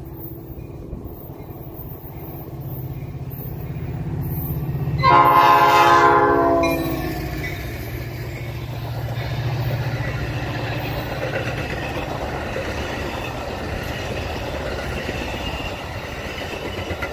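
Metra express commuter train approaching at speed behind its diesel locomotive, which sounds one horn blast about five seconds in, dropping in pitch as it passes. The bilevel coaches then rush past with a steady rumble of wheels on rail.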